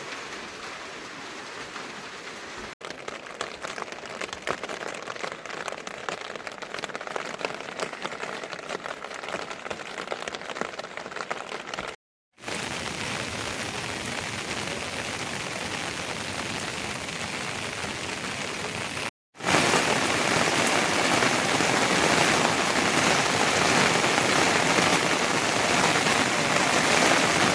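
Heavy rain falling: a steady hiss with many individual drops spattering. It breaks off briefly three times, about 3, 12 and 19 seconds in, and is loudest after the last break.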